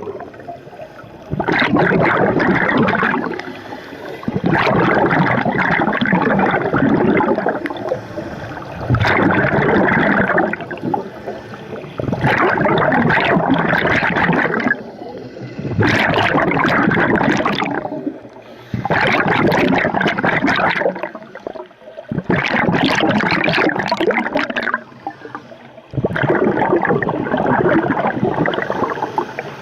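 Scuba diver breathing through a regulator underwater: rushing bursts of exhaled bubbles lasting two to three seconds, alternating with quieter gaps, about once every three to four seconds.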